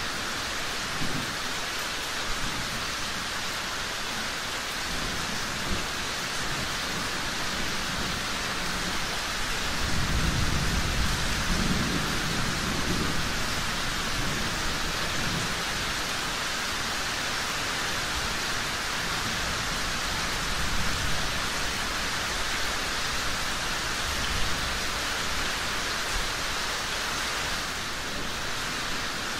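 Steady rain falling, with a low rumble of thunder swelling and fading between about ten and thirteen seconds in.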